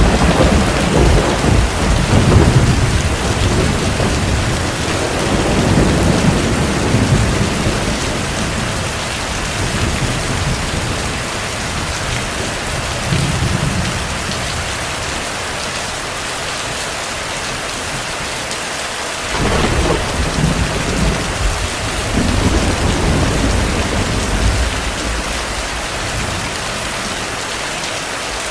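Heavy, steady rain with distant rolling thunder. A long low rumble dies away over the first dozen seconds or so. A second thunderclap breaks in about two-thirds of the way through and rumbles off.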